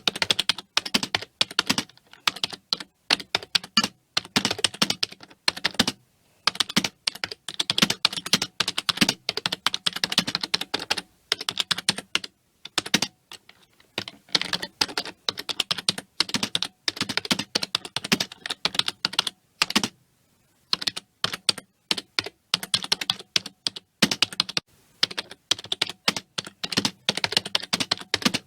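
Computer keyboard being typed on quickly and continuously, keys clicking in rapid runs with brief pauses between bursts.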